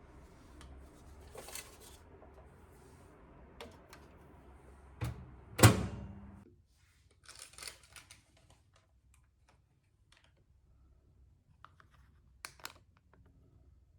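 Scattered light scrapes and clicks of something being handled, with one loud knock and a short ringing tail about five and a half seconds in.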